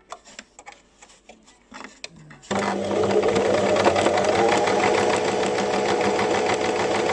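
Basic domestic electric sewing machine, driven from the foot pedal, stitching a folded hem. After a few faint clicks it starts abruptly about two and a half seconds in and runs steadily at an even speed.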